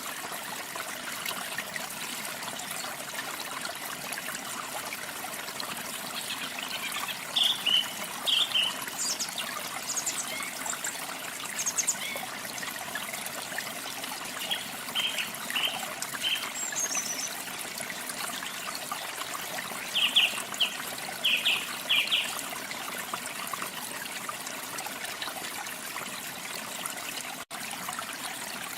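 Steady rush of falling water from a waterfall, with birds chirping in several short bursts of quick notes, the loudest sounds in the mix.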